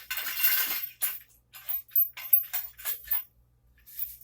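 A brief scraping rush, then a run of light clicks, clinks and knocks: an auxiliary fence and its metal bolt hardware being handled as the fence is taken off a table saw's rip fence.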